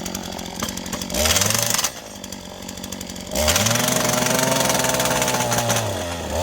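Small petrol engine of a hand-held track tool revving up twice: a short burst about a second in, then a longer one held at steady speed for nearly three seconds before dropping back to idle.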